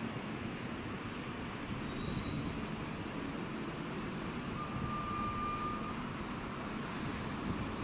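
LNER passenger train rumbling slowly into the station over the points, with thin high-pitched wheel squeal in several tones from about two seconds in, dying away about six seconds in.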